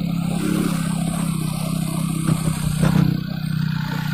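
Truck engine running steadily, with a couple of sharp knocks or clatters about two and three seconds in.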